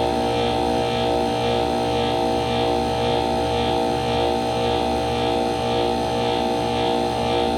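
HVAC unit running: a steady machine hum with several held tones and a faint regular pulse about twice a second.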